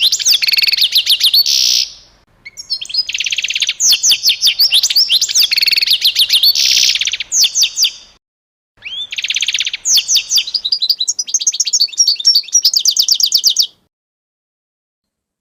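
A songbird singing long, fast, varied song phrases of rapid trills and repeated high notes, in three bouts with short pauses between them; the song stops near the end.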